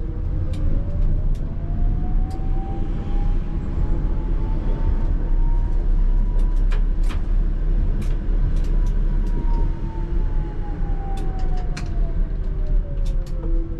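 ČKD Tatra T3R tram running, with its traction motor whine rising in pitch as it picks up speed, peaking about eight seconds in, then falling as it slows. Underneath is a steady low rumble of wheels on rail, with scattered sharp clicks.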